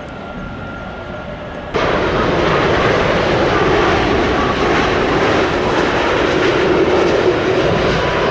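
Boeing 787 airliner's jet engines on landing: a steady hum with a thin whine, then from about two seconds in a sudden jump to a much louder, steady rushing jet noise.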